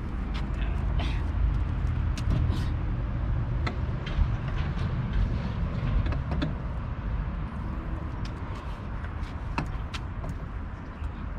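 Mountain bike being loaded onto a car's bike rack: scattered clicks, knocks and clanks of the frame and rack parts being handled, over a steady low rumble.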